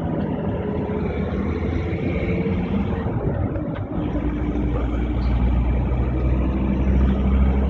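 A motor vehicle driving: steady engine and road rumble that grows louder in the second half.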